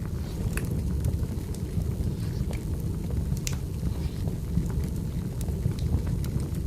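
Wood fire burning: scattered sharp pops and crackles over a steady low rumble.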